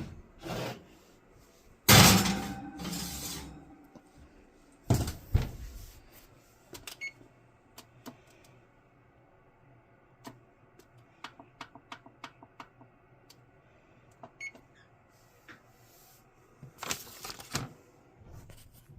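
An oven door shuts with a loud clank about two seconds in, then another knock a few seconds later. A run of light clicks with a couple of short beeps follows, typical of oven control buttons being pressed, and there is more handling noise near the end.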